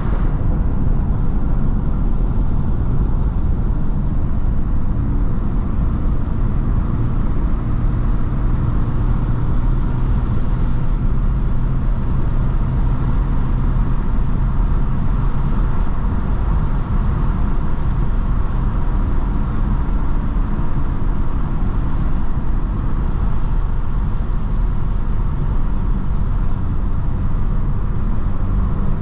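Mercedes-AMG C43 cruising at a steady speed: a low, even engine drone under road and tyre noise, with no revving.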